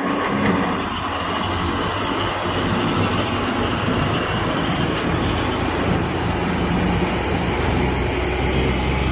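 Heavy truck's diesel engine running steadily under way, with a constant low drone mixed into loud road and wind noise.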